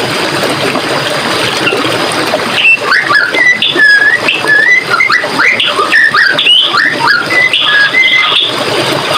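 Running water from a forest stream, with birds chirping over it: a rapid string of short, varied chirps and whistles begins about two and a half seconds in and continues to the end.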